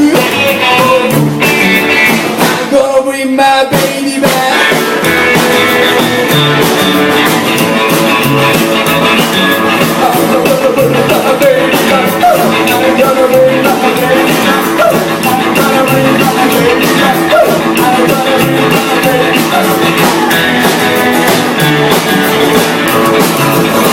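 Rock band playing loud, with a steady drum beat and guitar.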